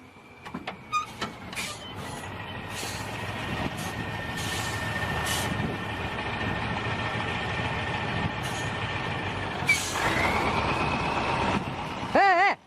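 A heavy truck or machine engine running and building in level, with a steady high whine, a few knocks early on and several short hissing bursts. About ten seconds in, a whine rises sharply in pitch.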